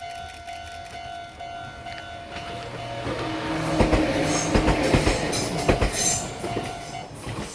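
Meitetsu 6000 series electric train passing close by, its wheels clattering over rail joints in a run of loud knocks that peak in the middle, over a steady high tone that stops about seven seconds in.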